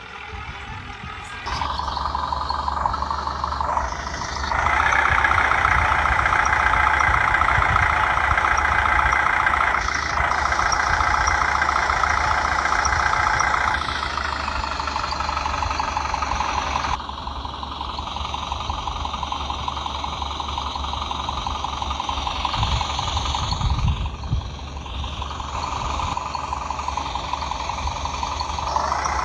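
A motor running steadily, a whine over a low hum, that steps louder and quieter several times, loudest for a stretch in the first half.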